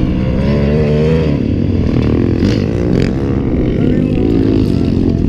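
Racing lawn mowers fitted with 250–400cc motorbike engines running hard, several engines at once, their pitch rising and falling as they rev and change speed.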